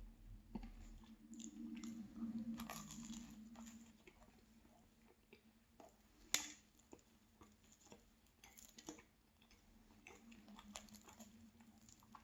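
Faint chewing of a pastry, with scattered soft crunches and clicks and one sharper click about six seconds in.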